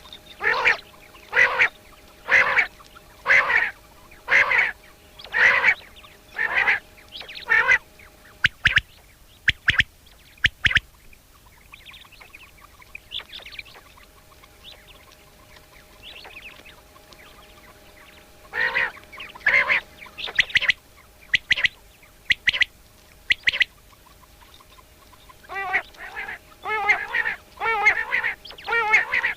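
A bird giving short, harsh calls, about one a second at first, then after a lull a faster, denser series near the end, with a few sharp clicks in between.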